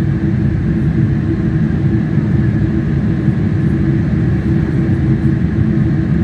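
Boeing 777 jet engines running at high power, a loud, steady rumble with a faint steady hum over it and no change in level.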